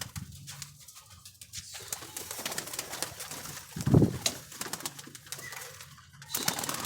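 Domestic pigeons cooing, with small clicks and rustles of movement and a loud thump about four seconds in.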